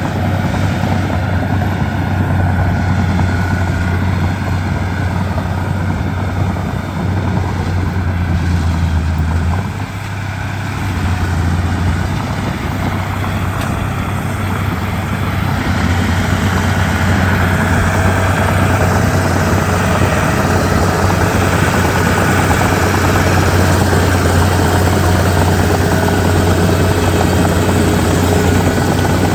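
Bulldozer diesel engine running loud and steady, with a strong low hum. It drops briefly about a third of the way in, then picks up again and runs a little louder through the second half.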